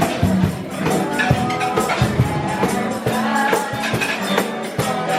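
Live band music playing in a restaurant, with a steady percussion beat.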